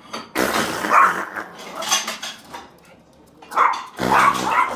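A dog barking in several loud bursts.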